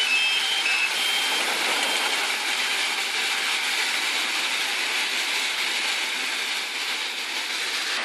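Almond tree shaker machine running, a steady mechanical noise that holds level throughout.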